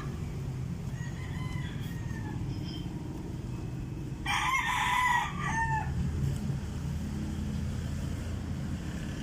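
A rooster crowing once, about four seconds in, a single call of about a second and a half, over a steady low rumble.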